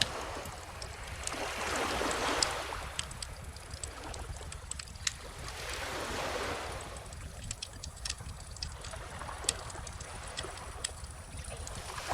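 Calm ocean waves washing onto the beach in slow swells, two of them about four seconds apart, with a wood bonfire crackling and popping in sharp little snaps throughout.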